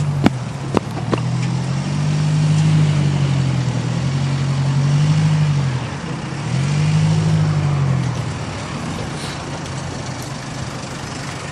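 Car engine rising and falling in speed three times as the car is manoeuvred into a parking spot, then settling to a steadier, lower run toward idle. A few sharp clicks sound in the first second or so.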